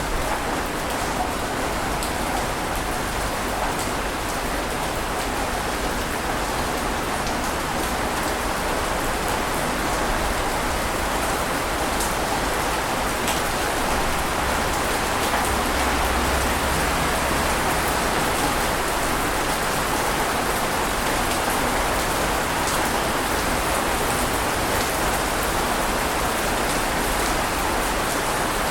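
Ocean surf on a beach: a steady rushing wash of breaking waves, with no distinct single crashes.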